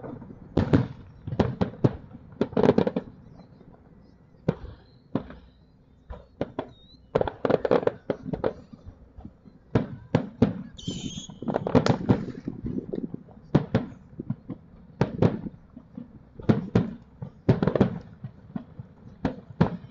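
Aerial firework shells bursting: irregular sharp bangs and crackles, often several in quick succession, with a lull about four to six seconds in.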